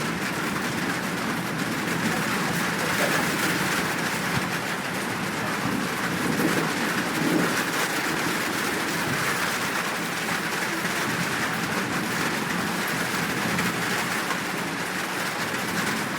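Steady rain falling in an even, dense patter.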